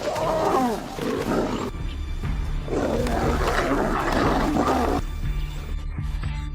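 A lioness roaring in two bouts, the first at the start and the second from about three to five seconds in, over background music with a steady low bass.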